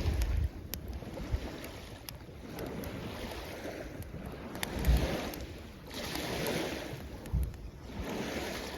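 Waves washing onto the shore in swells every couple of seconds, with the sharp pops and crackles of a wood campfire. Wind thumps on the microphone twice.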